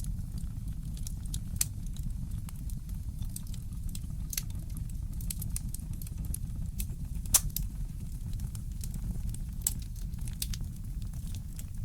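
Fireplace crackling, with scattered sharp pops and one louder pop about seven seconds in, over a steady low rumble.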